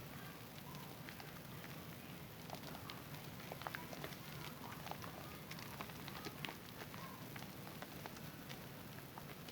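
Wet bar soap being lathered: soft, wet, irregular crackling and squishing with many small clicks.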